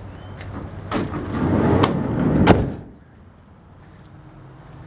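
Sliding side door of a Chevrolet Express cargo van rolling along its track for a couple of seconds and ending in a loud bang as it hits its stop.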